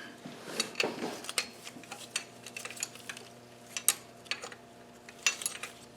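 Metal hand tools clinking and tapping against engine parts: a dozen or so irregular sharp clicks.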